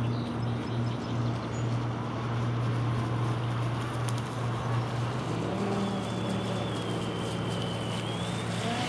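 Electric RC race boat running on the water, its brushless outrunner motor giving a steady hum over a haze of noise. The hum changes pitch about five seconds in, and a faint, wavering high whine comes in.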